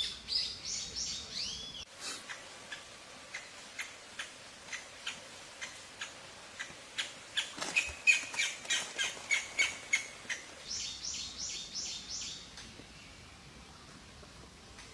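Tali pocong birds chirping at the nest while a parent feeds its chicks. There are fast runs of high chirps at the start and again about eleven seconds in, with a string of short, sharp chirps in between, and it grows quieter near the end.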